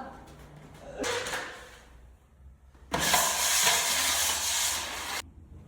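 A short fading rustle about a second in, then a loud, even hiss that starts sharply about three seconds in and cuts off abruptly about two seconds later.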